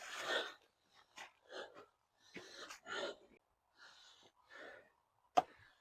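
A person trudging through deep mud while pulling a sled: a string of short, irregular breathy and squelching sounds from laboured breathing and steps, with a sharp click near the end.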